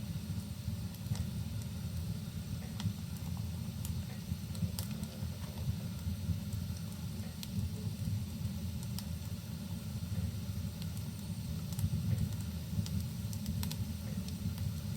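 Wood fire crackling with scattered small pops over a steady low rumble of rain.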